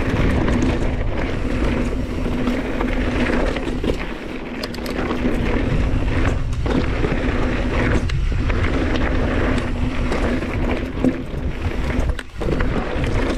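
Mountain bike rolling fast down a rocky trail: wind buffeting the camera microphone over a steady hum and rattle of tyres and bike, with a brief drop in loudness about 12 seconds in.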